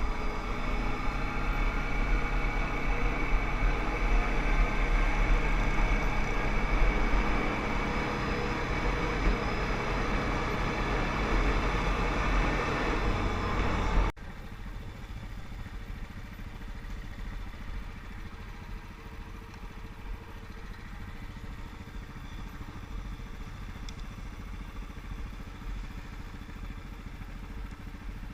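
ATV (quad bike) engines running, loud for the first half. About halfway through the sound cuts off abruptly and gives way to a quieter, steady engine rumble.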